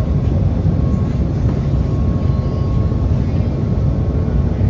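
SEPTA trolley running along the track: a steady low rumble with a faint thin whine above it.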